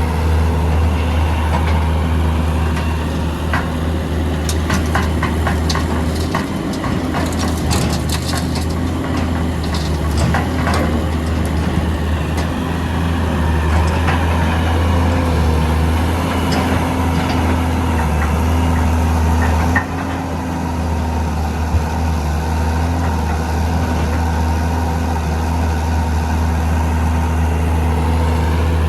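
Heavy diesel engines of a Hitachi EX200 excavator and an Isuzu Elf dump truck running steadily, with a stretch of clattering and knocks about four to eleven seconds in.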